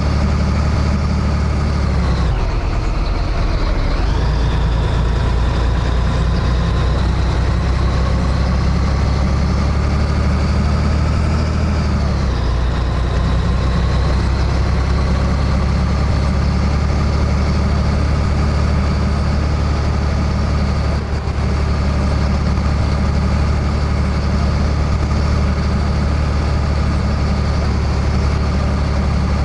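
Scania 113H truck's diesel engine running steadily under way. Its pitch dips about 2 and 4 seconds in and drops again near 12 seconds, then climbs slowly.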